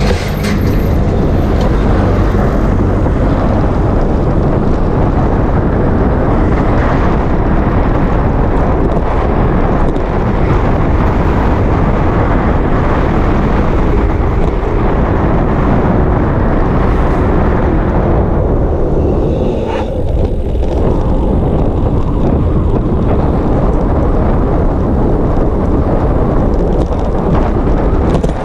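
Wind buffeting a GoPro's microphone during a bicycle ride on the road: a loud, steady rumble that eases briefly about twenty seconds in.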